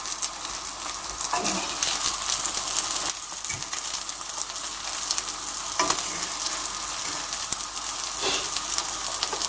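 An eggplant slice in beaten egg sizzling steadily as it fries in a frying pan, with a few light clicks and scrapes of a fork against the pan.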